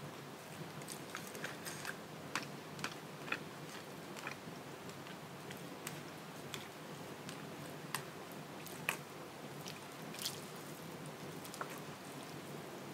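A person eating and chewing noodle soup, with scattered soft mouth clicks and a few sharper clicks.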